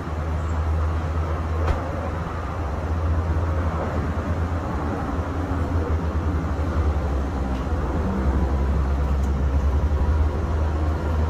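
Steady low rumble of road traffic and running vehicles, with one sharp click about two seconds in.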